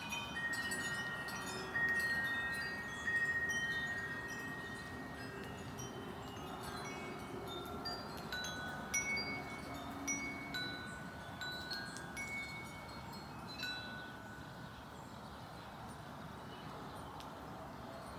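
Wind chimes ringing in the breeze: clear notes at several pitches struck irregularly and left to ring. They are loudest in the first few seconds and fade out after about fourteen seconds.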